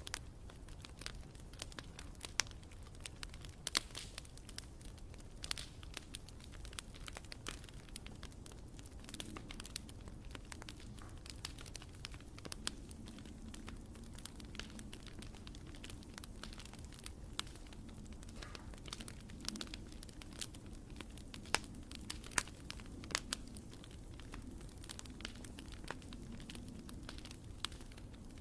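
Wood campfire crackling: frequent sharp snaps and pops over a steady low background of burning.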